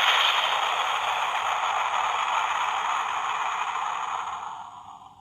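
Sound-effect capsule toy's tiny speaker playing a steady hissing noise clip that fades out near the end.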